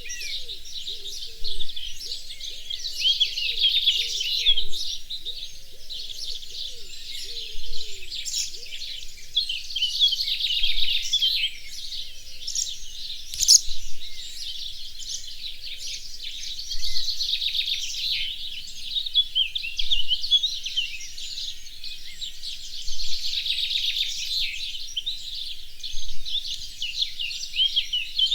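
Birdsong in a natural setting: a bird repeats long, rapid, high-pitched song phrases every six or seven seconds, with other birds chirping between. Low, curved calls are heard through roughly the first third.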